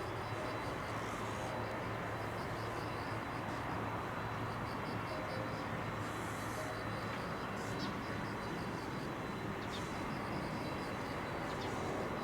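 Steady outdoor background noise, an even hum with no single event standing out. A faint, high, rapidly repeating ticking runs through it, and a few short high chirps come in the second half.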